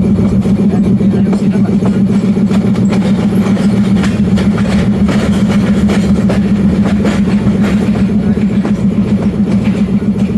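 Diesel locomotive engine running steadily and loudly, with a fast pulsing beat.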